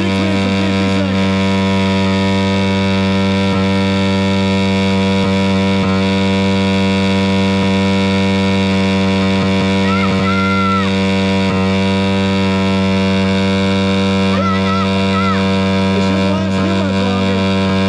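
Pit bike engine held at a steady, unchanging high speed for the whole stretch, with no revving up or down: it is being run flat out on purpose to blow it up.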